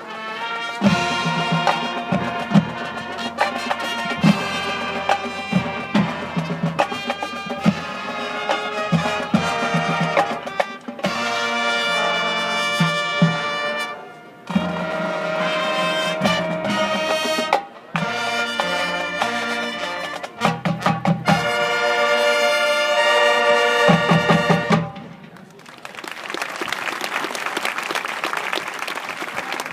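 Marching band playing: brass chords over drumline hits, with several sharp stops and restarts, ending with a final loud chord about 25 seconds in. The crowd then applauds.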